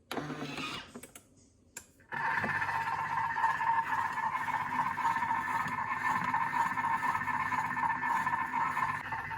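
Thermomix food processor starting up and running steadily on reverse spoon speed, stirring the chicken while it heats to 120 °C; the steady whir begins about two seconds in.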